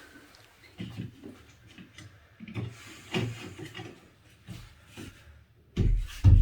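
Handling sounds of map pieces being fitted and pressed onto a wall: scattered light knocks and rustling. A much louder sound starts near the end.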